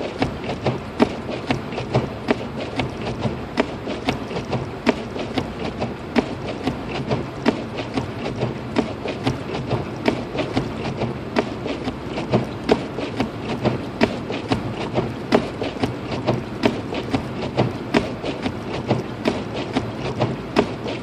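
Steady low road and drivetrain noise inside a car cabin, driving through a snowstorm, with irregular sharp ticks and taps several times a second.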